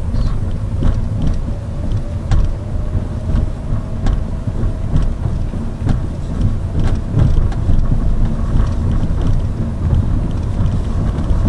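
Inside a moving Lada Vesta Cross: a steady low road and engine rumble with irregular sharp clicks from the rear door area. The owner suspects the body is flexing and the door glass is loosely bonded, or the body welding is poor. A faint whine rises in pitch over the first half.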